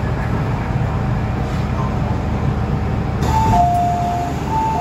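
MTR M-train running with a steady low rumble; about three seconds in, a two-note electronic chime sounds, a higher note then a longer lower one, and it starts again near the end.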